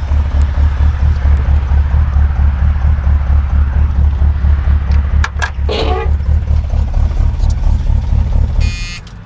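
Pontiac 350 V8 idling with a loud, steady low exhaust pulse, now firing on all cylinders but burning a little too rich. A few clicks and a short higher sound come a little past halfway, and the engine sound cuts off shortly before the end.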